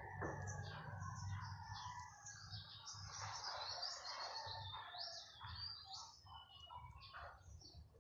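Small birds chirping and twittering: many short overlapping chirps throughout, over a low steady background hum.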